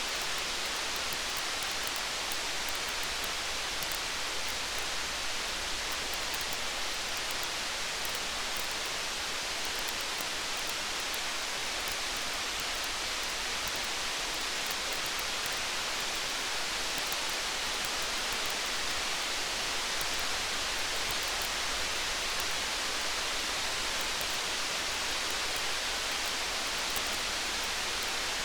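Steady rain with a campfire: an even hiss of rain with many small, sharp crackles.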